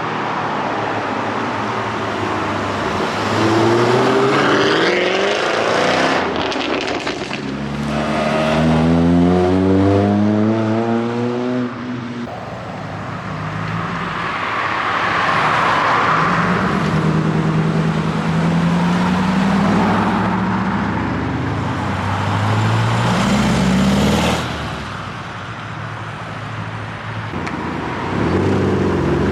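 Cars driving past one after another, their engines accelerating with rising engine notes; one pulls hard with a long rising note from about eight to twelve seconds in.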